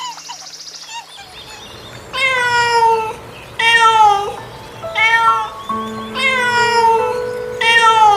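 An animal calling five times, each a drawn-out cry of under a second that falls in pitch, with background music of long held notes.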